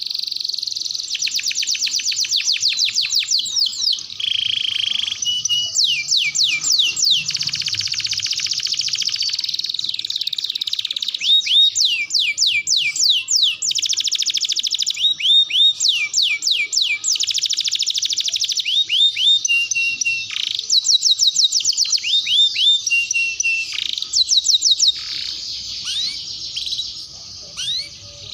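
Canary singing a long, continuous song of rapid trills, runs of fast repeated high notes and falling sweeps, with brief pauses between phrases.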